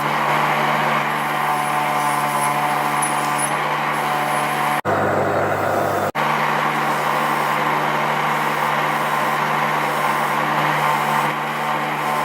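An electric motor running steadily, with a dense hissing, abrasive noise over its hum. Just under five seconds in, the sound changes abruptly for about a second, then returns.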